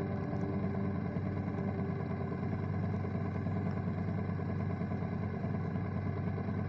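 BMW motorcycle running steadily on the move, an even engine drone with no change in pace.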